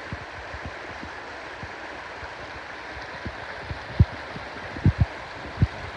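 Steady rush of flowing water from a stream, with a few short low thumps, the loudest about four and five seconds in.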